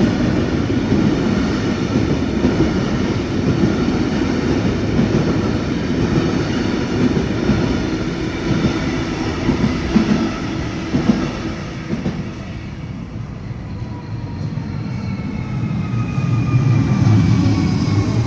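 Freight train rolling past at close range: a continuous heavy rumble of wagons and wheels on the rails. It eases off a little about two-thirds in, then swells again, with a faint falling whine near the end.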